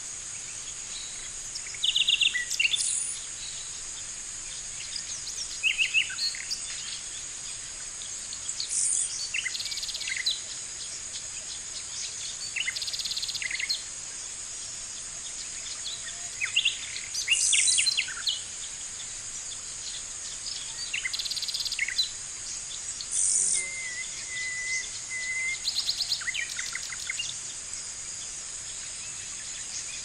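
Birds calling in short chirping phrases every few seconds over a steady high-pitched hiss.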